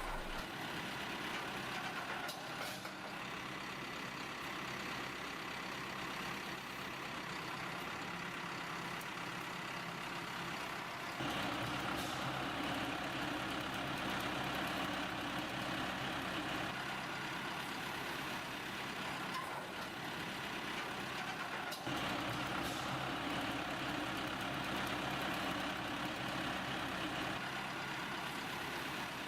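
Claas Arion 550 tractor's diesel engine running steadily under load while hauling a log trailer up a steep slope. The sound changes abruptly twice, about a third and two-thirds of the way through.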